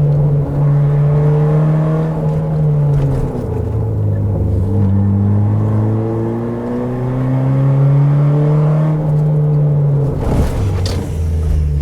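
Car engine pulling through bends: its note drops about three seconds in, then climbs steadily for about five seconds as the car accelerates, and falls again near the end with a brief rougher patch.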